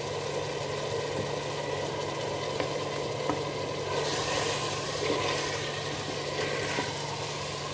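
Mutton and crushed onion frying in oil in a pressure cooker, sizzling while a wooden spoon stirs and scrapes through it, with a few small scraping ticks. The sizzle grows louder about four seconds in, over a steady low hum.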